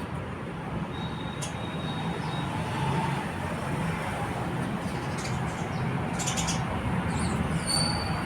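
Steady traffic rumble and hiss with a few short, high chirps of house sparrows, including a quick run of them a little past the middle.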